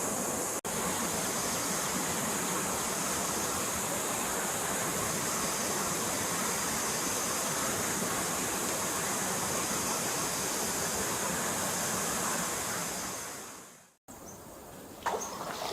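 Steady rush of flowing stream water, which fades out near the end into a quieter stretch with a couple of brief sounds.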